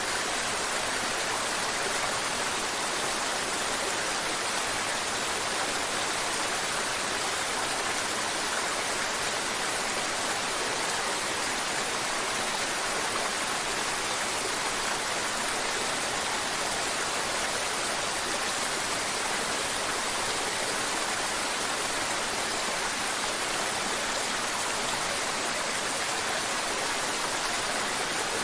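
Mountain river water flowing and splashing over rocks: a steady, even rush of water.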